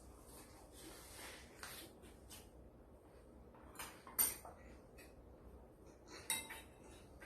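Dishes and metal utensils clinking: softer scraping and rustling, then two sharp ringing clinks about four and six seconds in.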